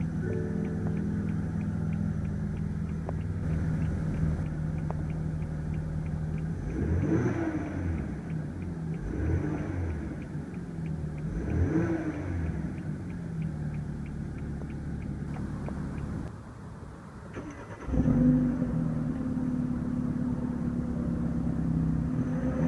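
BMW 328i's 2-litre twin-turbo inline four-cylinder idling, revved twice with a quick rise and fall (about 7 and 12 seconds in) and a smaller blip between, then settling back to idle. Near the end it goes briefly quieter, then returns suddenly to a steady idle.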